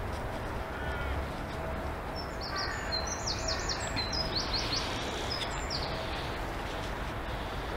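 Birds chirping: a run of quick, high, falling calls starting about two seconds in and lasting some three seconds, over a steady low background rumble.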